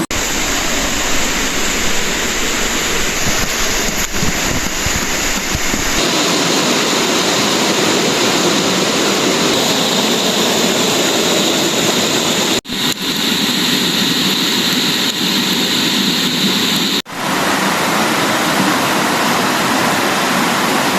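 Steady rushing water of a jungle stream or small waterfall, with two abrupt breaks a few seconds apart in the second half.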